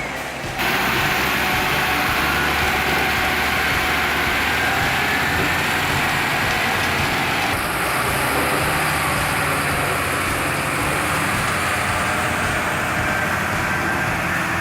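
Heavy machine's engine running steadily, with broad mechanical noise; the sound changes abruptly about half a second in and again about halfway through.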